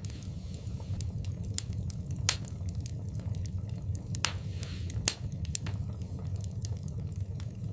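Wood fire in a fireplace crackling, with irregular sharp pops over a steady low rumble of the flames. Two pops, about two seconds in and about five seconds in, stand out as the loudest.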